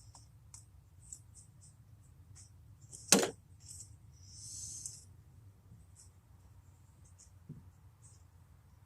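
Tools and parts being handled: scattered light clicks, one sharp knock about three seconds in, and a brief hiss soon after.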